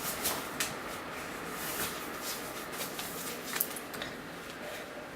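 Soft rustles and small clicks of safety gear such as goggles being picked up and handled, over a steady hiss. The sharpest click comes about three and a half seconds in.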